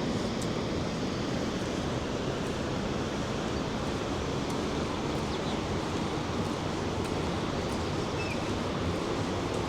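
Steady roar of the Rhine Falls: a constant rush of heavy falling water with no breaks or changes.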